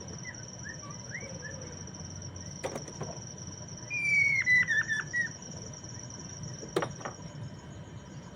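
Poksay mandarin (black-throated laughingthrush) singing: a few soft chirps, then about four seconds in a loud, quick run of whistled notes that step down in pitch. A steady high-pitched tone runs underneath, and two sharp clicks come about three and seven seconds in.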